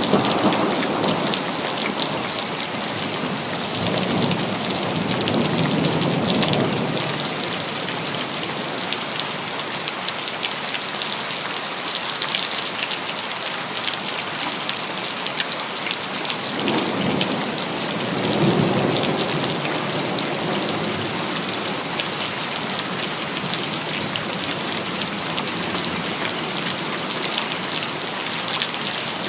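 Steady, heavy rain falling, with low rumbles of thunder swelling up and fading away a few times, near the start, about four seconds in and again after about seventeen seconds.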